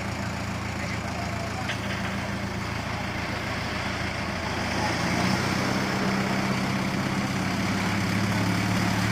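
Swaraj tractor's diesel engine running steadily at idle, growing somewhat louder about five seconds in.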